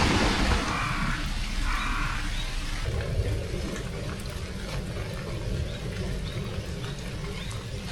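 Steady rain noise, with a crow cawing once about two seconds in.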